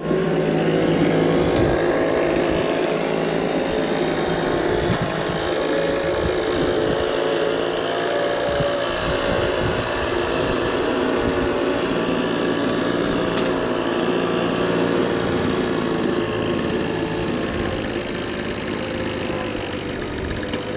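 A small engine running steadily at high speed, typical of a Husqvarna gas leaf blower at work. It fades slightly near the end.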